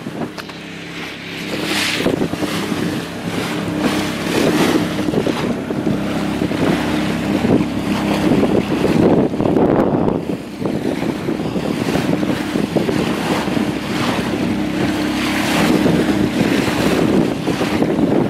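Strong wind buffeting the microphone and water rushing and splashing around a small sailboat's hull, in gusts, with a steady low hum running under it for most of the time.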